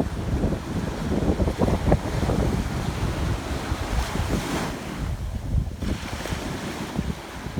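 Sea waves breaking and washing on a beach, with wind buffeting the microphone; a wave's wash swells about four seconds in, then drains away.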